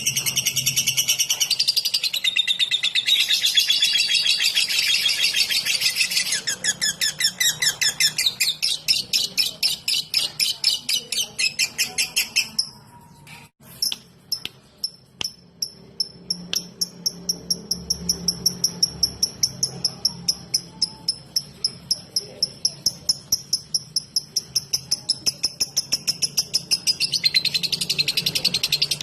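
Lovebird ngetik: long runs of rapid, high-pitched ticking chirps repeated several times a second, dense at first, breaking off briefly about halfway with a few clicks, then resuming as an even, fast ticking train that grows denser near the end.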